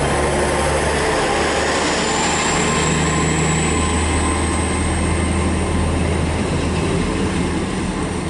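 Class 800 bi-mode train pulling out, its underfloor diesel engines giving a steady low hum, with a faint high whine slowly rising in pitch as it gathers speed.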